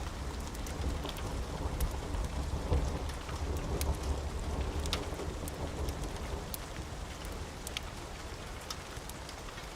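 Steady rain with a low rumble of thunder that eases off over the second half, and scattered sharp crackles of a wood fire.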